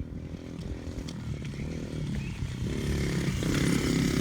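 Dirt bike engine running and getting steadily louder as the bike comes closer.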